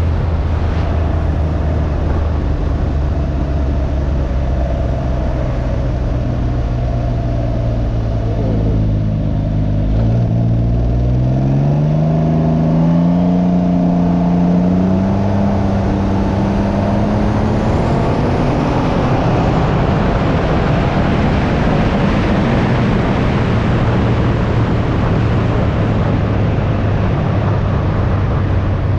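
Can-Am Ryker 900's three-cylinder Rotax engine running at a steady pace, then accelerating about a third of the way in, its pitch rising for several seconds. Wind rush builds as speed picks up and covers much of the engine in the second half.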